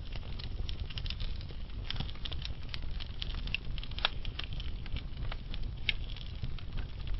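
Wood fire burning slowly in a fireplace, with irregular sharp crackles and pops from the logs over a low steady rumble of the flames; the loudest pop comes about four seconds in.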